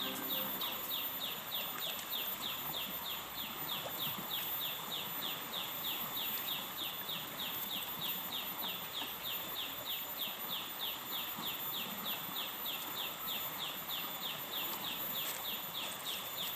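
A wild animal's high-pitched call: a short falling note repeated steadily, about three times a second, over a constant hiss.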